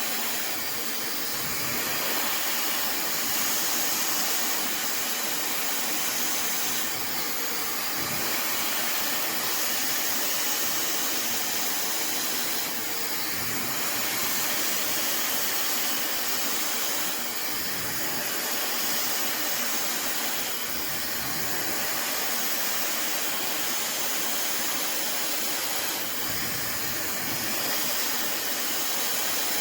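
Fentgo high-speed brushless hair dryer blowing continuously on its high power setting: a steady rush of air whose level rises and falls slightly every few seconds.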